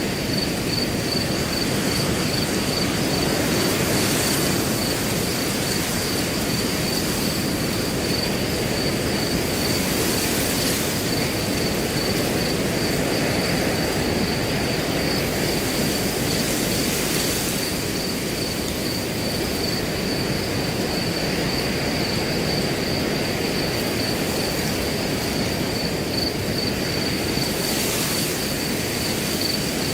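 Steady wind blowing through grass, swelling a little in soft gusts every several seconds, with crickets trilling continuously in an unbroken high-pitched pulsing tone.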